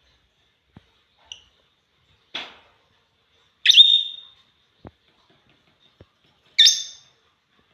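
African lovebirds calling: two loud, shrill single calls, one about a third of the way in and one near the end, with a softer chirp and a short rasp earlier, and a few faint taps in between.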